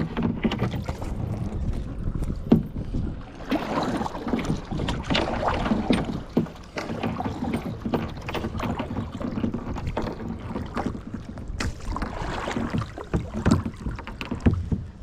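Kayak paddle strokes in lake water: splashing and dripping as the blades dip and pull, with occasional sharp knocks.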